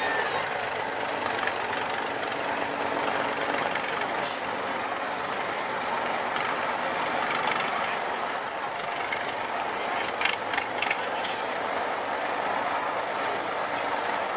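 IFA W50 truck's four-cylinder diesel engine running steadily, with several short sharp hisses of air from its air brakes, the loudest about four seconds in and near the end, and a few clicks shortly before the last one.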